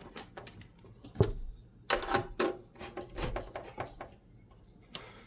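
Screws on a tankless water heater's gas valve assembly being tightened with a hand tool: a string of sharp metallic clicks and knocks, dying down about four seconds in.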